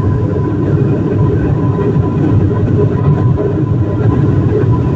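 Steady, loud rumble of a vehicle in motion, with a faint steady tone running through it.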